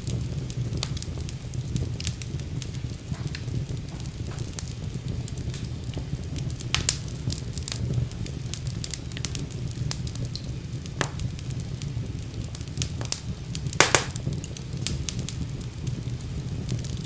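Wood fire burning in a fireplace: a steady low rumble of flames with irregular crackles and pops, two louder pops about a third of the way in and again near the end.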